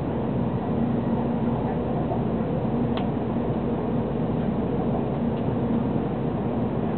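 Steady interior running noise of a 700 series Shinkansen train, heard inside the passenger cabin: an even rumble with a low hum. A faint click comes about three seconds in.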